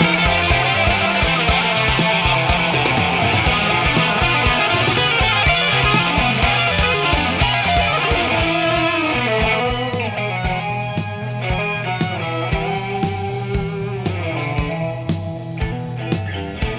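Psychedelic hard rock instrumental passage: electric lead guitar over bass and a busy drum kit, easing down somewhat about ten seconds in.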